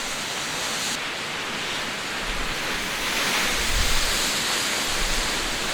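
Gale-force mistral wind blowing over the microphone with stormy sea surf breaking on rocks: a steady rushing noise with low gusty buffeting, swelling louder a little after three seconds in.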